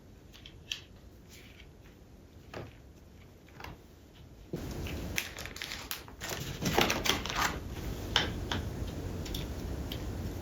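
Small parts of a wired dental loupe light being handled and fitted to the loupes: scattered light clicks and taps, then from about four and a half seconds in a steady rustling handling noise with further clicks.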